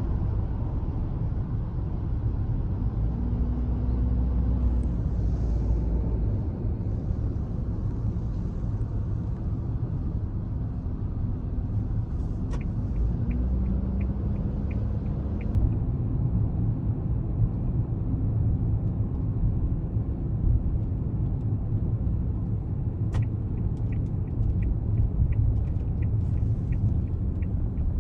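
Steady low road rumble inside a moving car. Twice a regular run of light ticks sounds over it.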